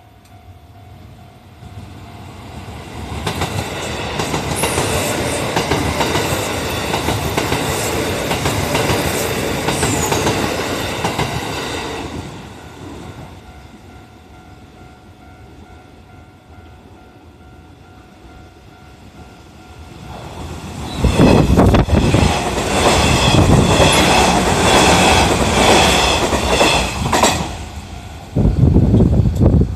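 Two electric commuter trains, a Kintetsu 9820 series and a Hanshin 1000 series, pass a level crossing one after the other. The first goes by from about three seconds in to about twelve. The second comes past louder about twenty-one seconds in, with wheels clacking over the rail joints.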